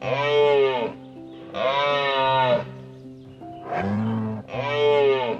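Farm livestock calling: four drawn-out pitched calls of about a second each, the third much lower than the rest, over steady background music.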